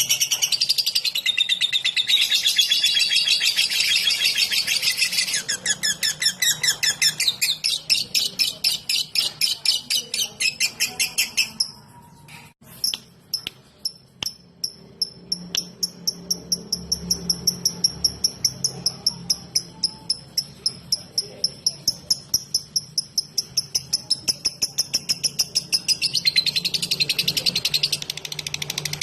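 Lovebird singing in the rapid 'ngetik' (typing) style: long runs of fast, high chattering clicks. Just after 12 s it breaks off briefly, then goes on as an even series of about four pulses a second over a thin steady high tone, before turning back to dense chatter near the end.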